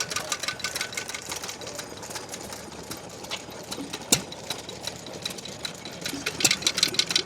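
Vintage stationary engines running, with a rapid, irregular clicking and three sharp knocks, the loudest about four seconds in.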